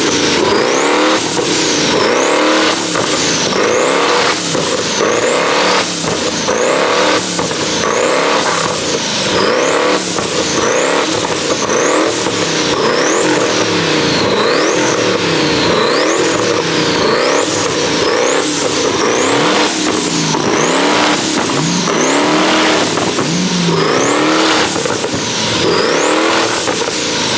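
Car engine revving up and down over and over in a steady cycle, about once every second and a half, with a high whine sweeping upward on each cycle.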